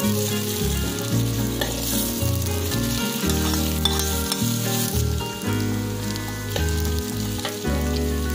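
Sliced onions and sausage rounds sizzling in hot oil in a steel wok as they are stir-fried with a metal spatula. A few sharp clicks come from the spatula scraping and knocking the pan.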